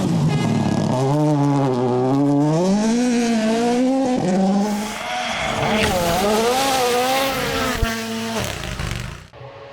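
Rally car engine revving hard, its pitch rising and falling again and again with throttle and gear changes. It cuts off suddenly near the end.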